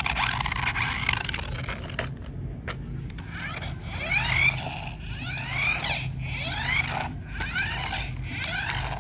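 Small electric motor of a radio-control toy whining, its pitch rising and falling over and over in short bursts as the throttle is worked, over a steady low hum.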